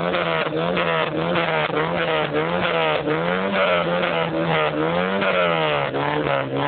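Citroën Saxo engine with a straight-pipe exhaust, revved in repeated throttle blips, its pitch rising and falling over and over, each time less than a second apart.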